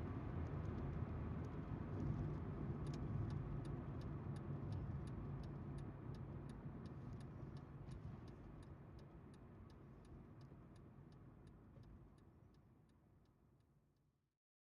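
Car cabin noise of tyres on the road and the engine hum, with a turn-signal indicator ticking steadily about two times a second; everything fades out to silence near the end.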